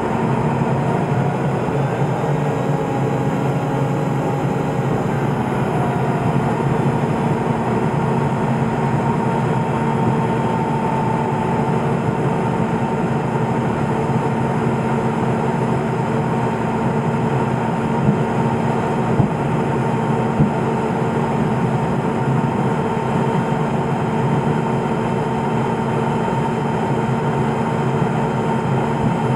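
Cessna P210 Silver Eagle's turboprop engine and propeller running steadily, heard from inside the cockpit as an even drone with a steady whine over rushing air. A few brief ticks sound about two-thirds of the way through.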